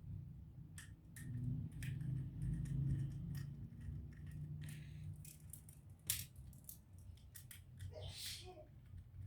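Scattered light clicks and taps of small tools and laptop parts being handled during disassembly, over a low steady hum, with one sharper click about six seconds in.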